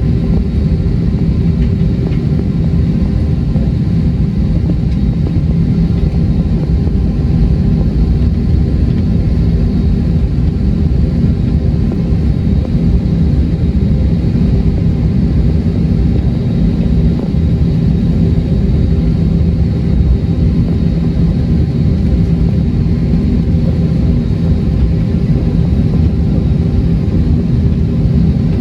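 Airbus A321-231 cabin during takeoff, its IAE V2500 turbofans at high power: a loud, steady rumble with a constant engine hum.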